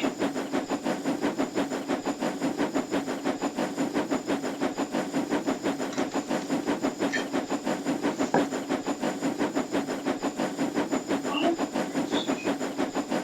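A small motor running steadily with a fast, even chugging rhythm of about six beats a second over a constant hum.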